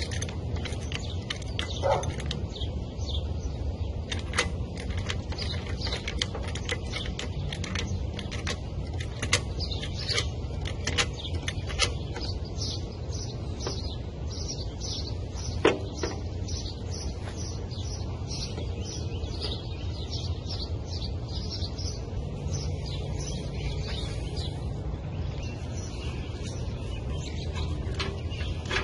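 Birds chirping repeatedly and rapidly over a steady low rumble. A few sharp metal clanks come from a hydraulic floor jack being worked, the loudest about sixteen seconds in.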